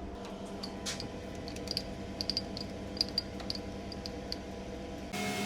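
Light metallic clicks and small taps over a steady machine hum. Near the end a louder motor switches on abruptly.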